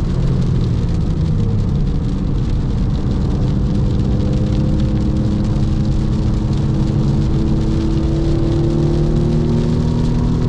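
Porsche 996.2 Carrera's 3.6-litre flat-six heard from inside the cabin, pulling steadily with its pitch rising slowly over several seconds, over a constant hiss of wet-track road noise.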